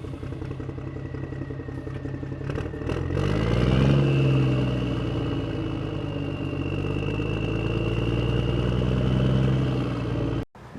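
An engine running steadily, its speed rising about three seconds in and then holding, with a thin whine above it; the sound breaks off suddenly near the end.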